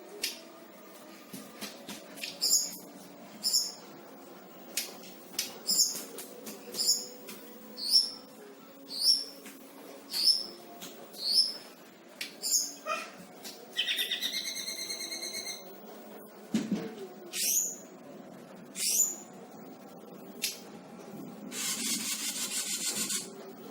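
A selendang biru songbird singing in full voice: sharp notes that fall steeply in pitch, about one a second. About halfway through comes a buzzy two-second trill, then a few more falling notes, and near the end a harsh rasping call lasting about two seconds.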